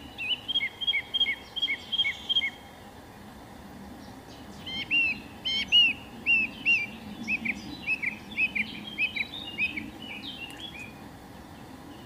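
A songbird singing two runs of quickly repeated whistled notes, about three a second: a short run at the start and a longer, louder one from about four and a half seconds in, over steady low background noise.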